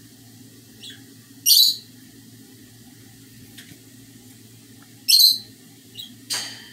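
Pet bird calling: two loud, short, high-pitched calls about three and a half seconds apart, then a shorter, sharper call near the end.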